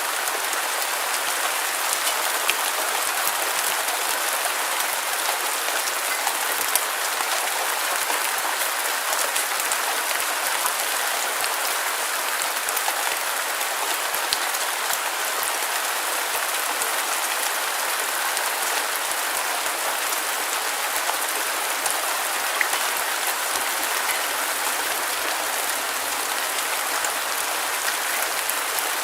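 Steady rain falling on a surface, an even dense hiss with scattered individual drop taps.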